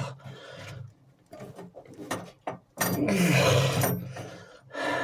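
Rubbing, scraping and small knocks of hands working a rubber wet-exhaust hose and its clamps onto the fittings, with the loudest, longest rub about three seconds in.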